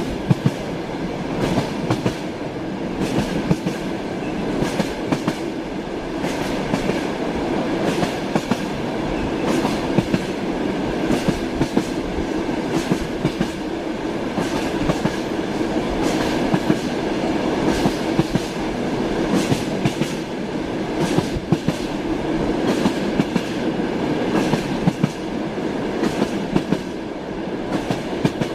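Railway carriage wheels running over rail joints: a steady rolling rumble with a repeating clickety-clack of sharp knocks.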